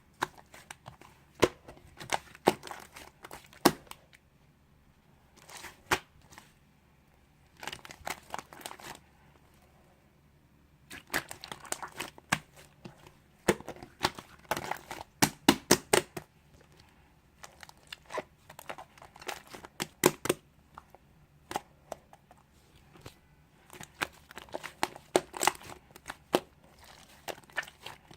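Fluffy, stretchy slime being squeezed and pulled by hand, giving off irregular clusters of sharp sticky pops and crackles, with a couple of brief pauses.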